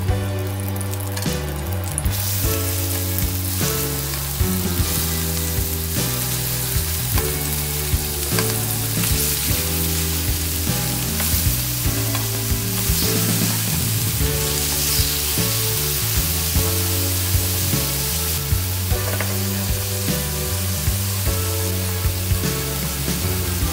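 Chicken tenderloins searing in oil and butter in a frying pan: a steady sizzle that gets louder about two seconds in.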